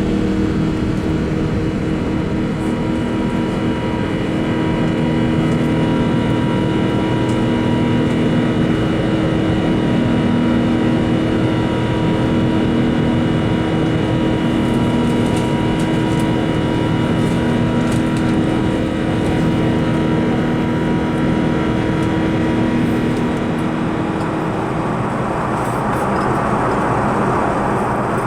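Airbus A380's Rolls-Royce Trent 900 engines heard inside the cabin: a loud, steady drone with several whining tones over a rushing noise. Near the end the tones fade and the rushing noise grows.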